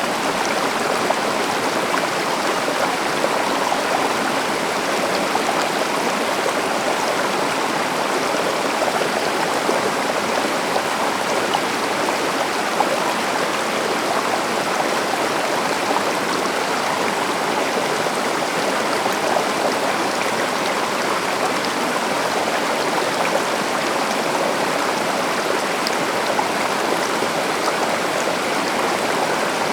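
Forest stream or small river flowing steadily, a continuous rush of water over rocks with small splashes and gurgles.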